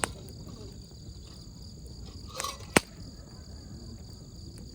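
Wood campfire burning with a low crackle and a few sharp pops, the loudest a little before the three-second mark. Insects chirr steadily behind it.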